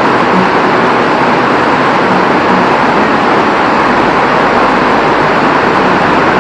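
Very heavy rain: a loud, steady hiss of downpour with no letting up.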